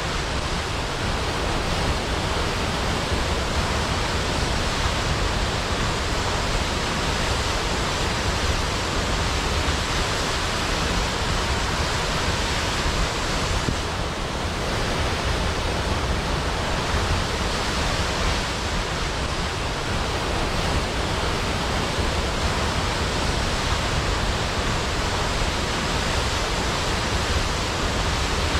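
Large waterfall crashing into a pool, a steady, unbroken rush of water.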